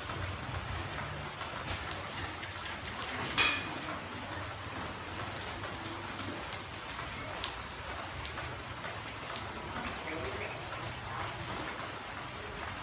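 Steady rain falling on a road and the plants around it, an even patter of drops. About three and a half seconds in there is one brief, sharper sound that stands out above the rain.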